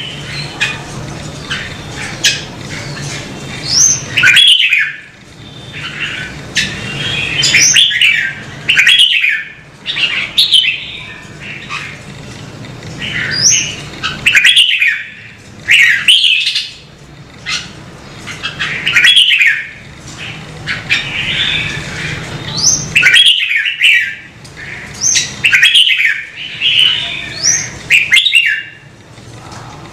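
Red-whiskered bulbul singing: loud, short warbled phrases with quick rising whistled notes, repeated every second or two.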